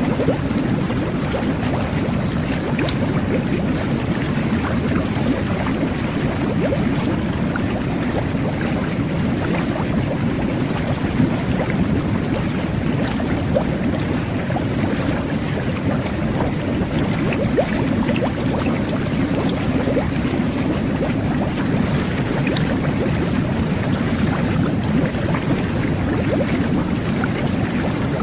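Jet bath (whirlpool tub) jets running, churning and bubbling the bathwater in a steady, even rush with small bubble pops.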